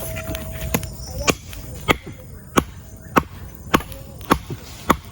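Wood being chopped with a blade: eight sharp, evenly paced strokes, one a little more than every half second.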